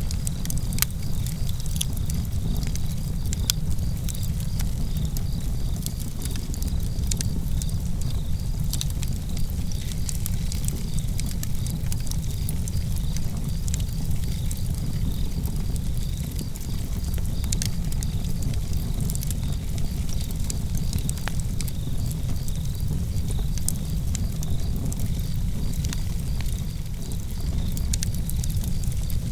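Campfire burning, with frequent sharp crackles and pops over a steady low rumble, and crickets chirping steadily in a high, evenly pulsing trill.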